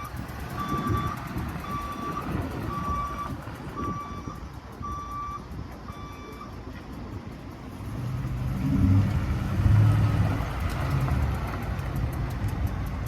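Backup alarm beeping about once a second, stopping about six seconds in, over a running truck engine. The 2015 Ford F-350's 6.2-litre gasoline V8 then grows louder with a low rumble for a few seconds before easing off.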